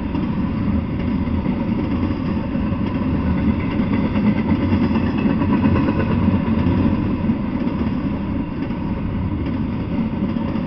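Double-stack intermodal freight train rolling steadily past: a continuous low noise of the cars and their steel wheels on the rails.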